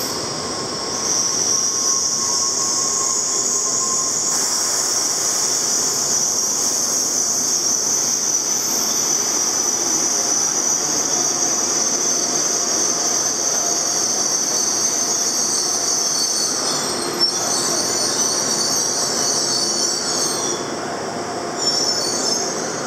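N700S Shinkansen train rolling slowly along the platform as it brakes to a stop, with a steady high-pitched squeal over the rumble of the passing cars. The squeal dies away near the end as the train halts, with a short sharp click a few seconds before.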